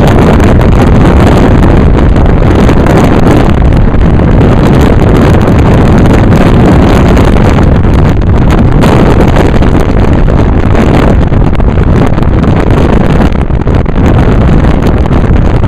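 Loud, steady wind noise buffeting the microphone of a video camera held at an open car window while driving, mixed with the car's low road and engine rumble.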